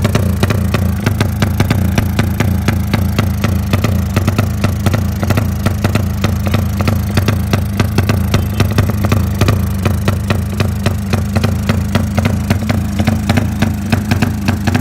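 Honda GL motorcycle's single-cylinder four-stroke engine idling through an aftermarket FanTera exhaust, with a steady, even exhaust beat.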